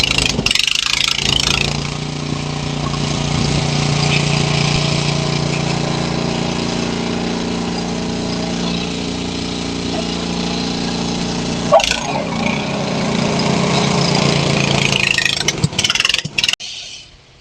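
Honda HS928 snowblower engine running steadily under load, with a hiss of throwing snow above it. A sharp knock comes about twelve seconds in, and more knocks come near the end as the sound breaks off.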